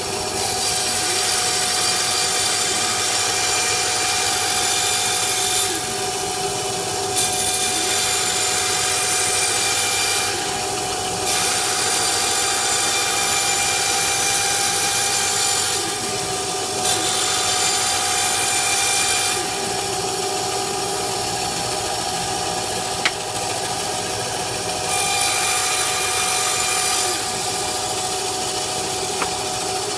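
Bandsaw running steadily while its blade cuts a 100 mm wooden disc on a circle-cutting jig, the workpiece turning on a pivot screw. The cutting hiss comes in stretches of a few seconds, dropping back to the machine's hum for a second or so between them.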